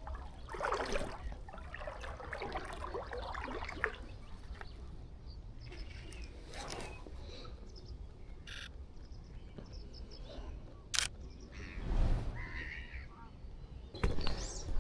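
Birds calling now and then, with harsh calls in the first few seconds and again later, and a single sharp click about eleven seconds in.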